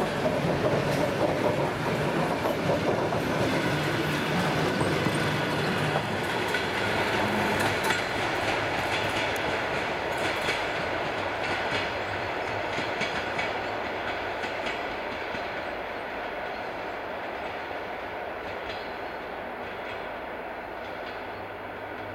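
Passing ER2K electric-train cars, hauled unpowered by an M62 diesel locomotive, with their wheels clattering over the rail joints. The clatter fades steadily into a low rumble as the train rolls away.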